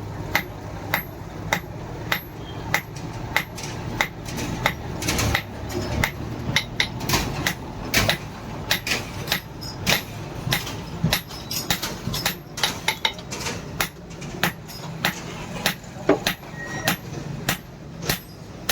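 Hammer blows on hot bearing steel on an anvil, in a steady rhythm of about one and a half to two strikes a second, over a steady low hum.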